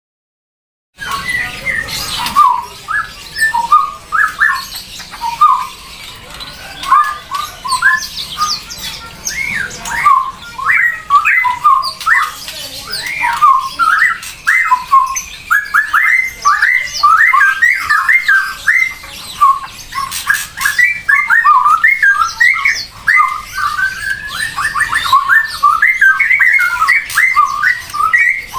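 Birds calling: a dense, continuous stream of short chirps and squawks, many calls in quick succession, starting suddenly about a second in.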